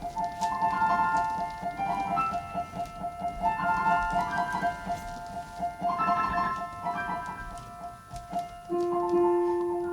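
Keyboard music in a piano sound: a high note repeats steadily, about four times a second, under short melodic phrases. A long, held lower note comes in near the end.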